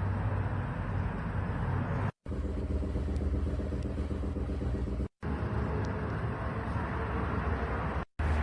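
Kia All New Carnival engine running steadily at idle, the hum the car is being checked over for engine-mount noise. It is heard in three short takes that cut off abruptly about two, five and eight seconds in.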